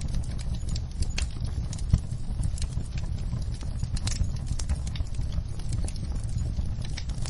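Wood fire burning in a fireplace: logs crackling with irregular sharp pops over a steady low rumble of the flames, one louder pop about two seconds in.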